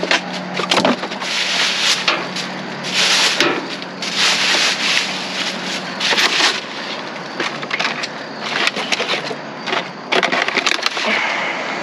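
Rummaging through a dumpster of discarded food: irregular rustling and crinkling of bags and packaging as items are pushed about and picked up.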